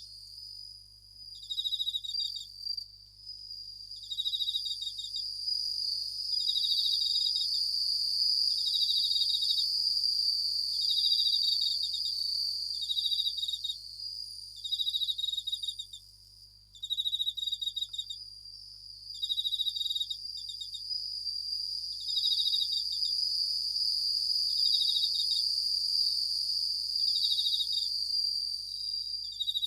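Japanese bell crickets (suzumushi) singing: short, ringing trills repeated about every second and a half over a steady, continuous high-pitched ring.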